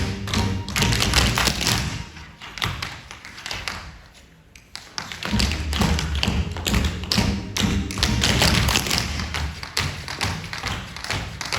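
Tap dancing: tap shoes striking the floor in quick, dense runs of taps and stamps, over music underneath. The tapping and music fall away a couple of seconds in, then come back strongly about five seconds in.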